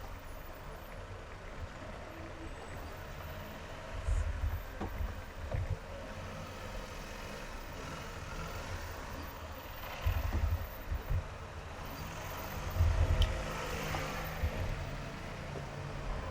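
Car driving in highway traffic: steady road and tyre noise, swelling in the middle as other vehicles pass. Short bursts of low rumbling come about four, ten and thirteen seconds in.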